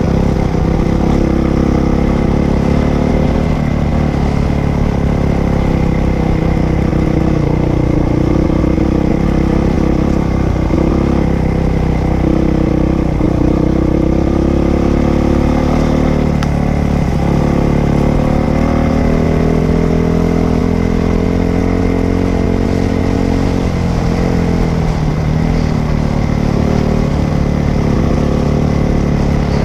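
Dirt bike engine running continuously while being ridden, its pitch rising and falling a little with the throttle.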